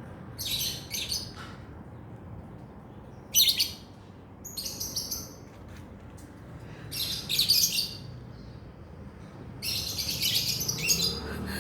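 Lovebird chattering in about five short bursts of high, scratchy chirps, the longest run coming near the end.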